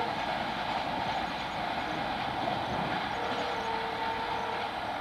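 Passenger express train rolling away over the points of a station yard, a steady rumble of wheels on rail. A steady mid-pitched tone sounds briefly right at the start and again for over a second about three seconds in.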